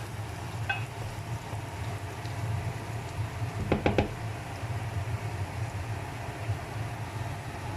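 Chopped onions frying in sunflower oil in a handi, a steady sizzle over a constant low hum. About four seconds in come three quick sharp taps.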